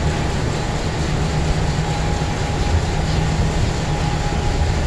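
A train running on the track: a steady low rumble with even rail noise and a faint steady whine.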